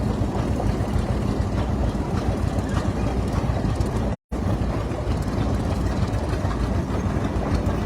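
Large antique tractor engine running with a steady low rumble. The sound cuts out completely for a moment about four seconds in.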